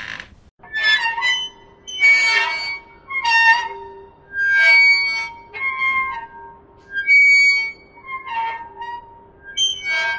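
A metal fork scraping across a ceramic plate in about ten short, shrill squeaks, each setting the plate ringing at the same few pitches.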